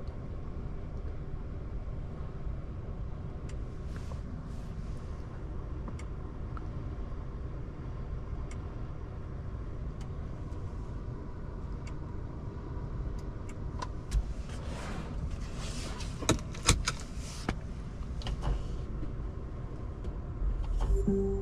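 Steady low road and tyre rumble inside the cabin of a Mercedes-Benz GLB350 on the move, with scattered sharp clicks and knocks, most of them in the second half.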